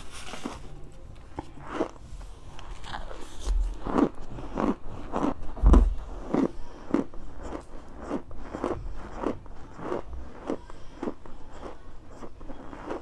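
Close-miked chewing of chunks of compressed cornstarch: a steady run of soft crunches, about two chews a second. A dull low thump stands out a little past the middle.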